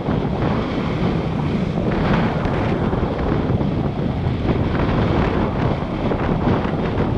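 Steady wind rush on the microphone of a GoPro action camera riding on a moving motorbike, with road traffic noise beneath it.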